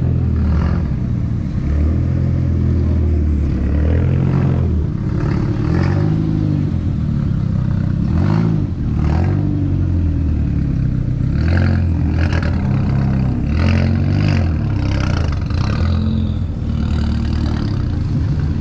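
A car engine running and being revved up and down again and again, each rev rising and falling in pitch over a second or two.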